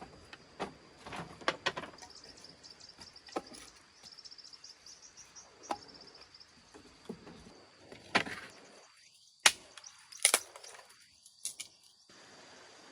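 Scattered sharp knocks and clicks of things being handled, the sharpest about two-thirds of the way through, over a steady high-pitched insect drone with a run of rapid chirps in the first half.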